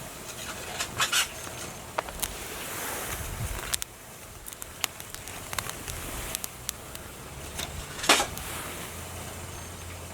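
Small kindling fire of wooden feather sticks just catching, crackling with irregular sharp snaps over a soft hiss; the loudest crack comes about eight seconds in.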